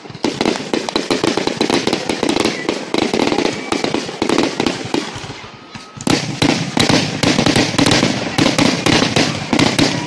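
Fireworks display: a dense, rapid crackle of many shells bursting. It eases off about five seconds in, then a louder barrage starts about a second later.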